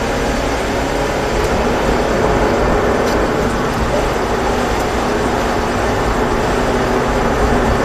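Mazda 3 1.6's four-cylinder engine running at a steady pitch, heard from inside the cabin, over a steady hiss of tyres on the wet track.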